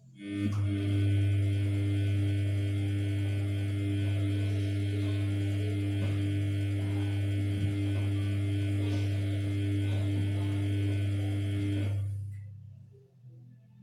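Samsung P1271 washing machine giving a loud, steady low electric hum that starts suddenly, holds for about twelve seconds, then dies away.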